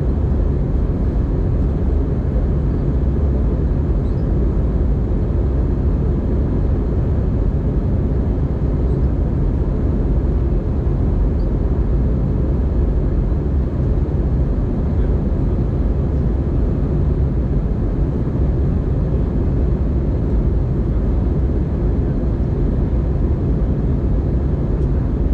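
Steady low rumble of an Airbus A320-200 heard from inside the passenger cabin in flight: engine and airflow noise, unchanging throughout.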